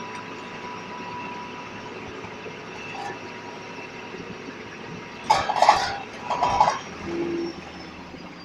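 DAF SB120 Cadet bus running, a thin steady whistle fading out over the first couple of seconds. Two short, loud clattering bursts come a little over five seconds in and again about a second later.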